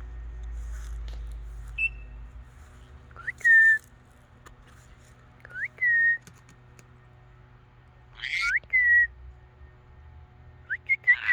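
Pet parrot whistling four times, spread a few seconds apart. Each whistle is a quick upward swoop into a held note, and short harsh noises come with some of them.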